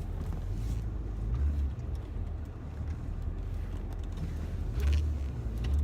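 Car engine running, a steady low rumble heard from inside the cabin, swelling slightly about a second and a half in and again near the end.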